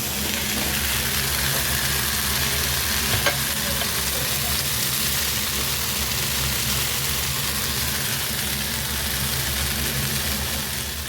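Food frying and sizzling, over a steady low hum, with one short clack about three seconds in.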